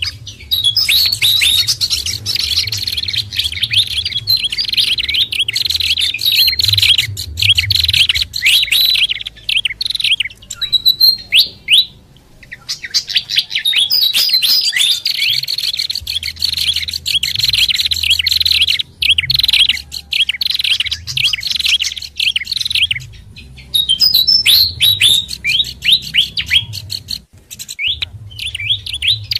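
Bird-lure recording of small songbirds, a mix of fantail, babbler and prinia calls, chattering in dense, rapid high chirps and twitters, with brief pauses about twelve seconds in and near the end.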